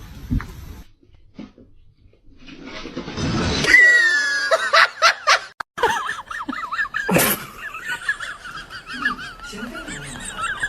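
A person laughing, in quick high-pitched bursts.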